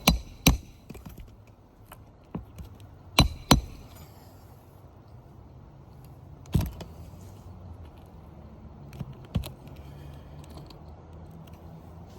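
Sharp metal-on-metal strikes from hand roofing tools used on a shingle repair, coming singly and in pairs a second or more apart.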